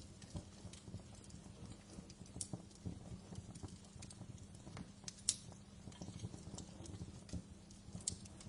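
Wood fire in a fireplace crackling, with irregular sharp pops and snaps over a low, steady hiss of flame. One louder pop comes about five seconds in.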